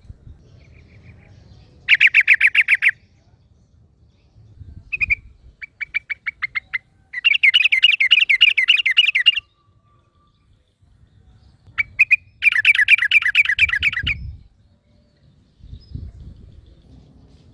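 Yellow-vented bulbuls singing in bursts of rapid, bubbly chattering notes, about ten a second. There are four phrases of one to two seconds each, with short pauses between them.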